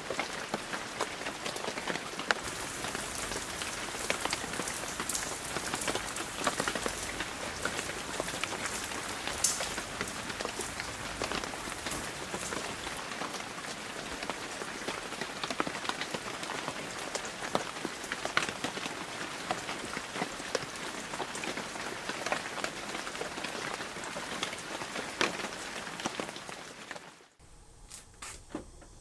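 Rain falling on a hard surface: an even hiss dotted with many small drop impacts, cutting off abruptly near the end.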